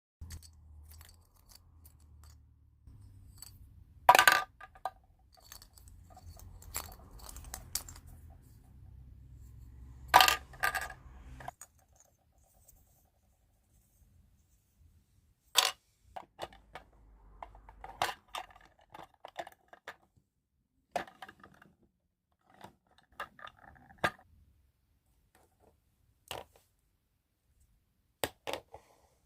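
Small plastic toy kitchen pieces being handled and set down: scattered clicks, taps and a few sharp clacks. A low hum runs beneath them for the first dozen seconds, then stops.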